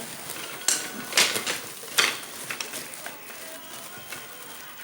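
Drumsticks and mallets clattering and knocking together as they are handled. The louder clatters come in the first two seconds, then lighter clicks follow.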